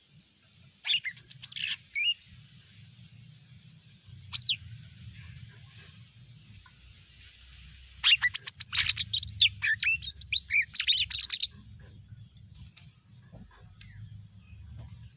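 Green leafbird (cucak ijo mini) singing in bursts of rapid, high sweeping notes: a short run about a second in, a single note around four seconds, then a longer, loud run of about three seconds past the middle. A faint low hum lies underneath.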